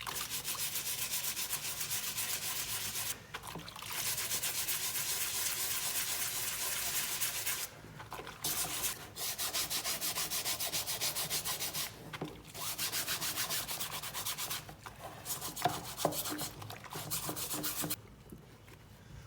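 Rapid back-and-forth scrubbing of a cap's fabric during washing. It comes in several bouts with short pauses and stops near the end.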